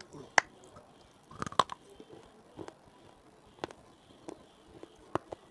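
Close-miked biting and chewing of a hard, brittle chunk: sharp crunches, a quick cluster about one and a half seconds in, then single cracks roughly once a second.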